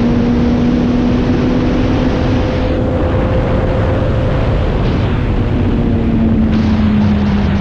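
Motorcycle engine running at a steady cruising speed under a loud rush of riding wind on the microphone; the wind eases somewhat about three seconds in.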